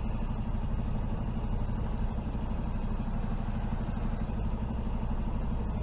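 Semi truck's diesel engine running steadily at idle as the rig backs slowly, with an even, rapid low beat.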